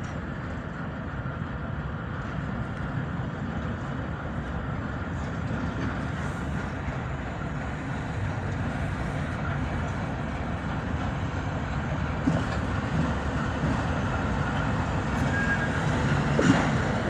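ChME3 diesel shunting locomotive's six-cylinder diesel engine running under load as it approaches, a steady low rumble growing gradually louder, with a few sharp knocks near the end.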